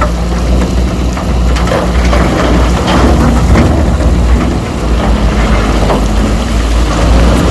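Heavy diesel earthmoving machinery running with a steady low engine hum, over a continuous crackle of scattered clanks and knocks such as steel tracks and rock or soil being moved.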